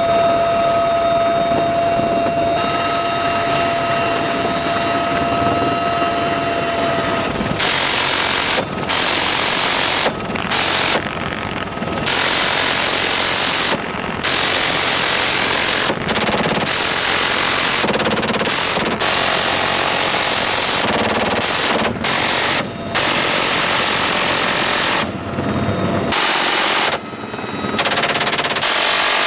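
UH-1Y Venom helicopter running with a steady high turbine whine. From about seven seconds in come long bursts of machine-gun fire with short breaks between them.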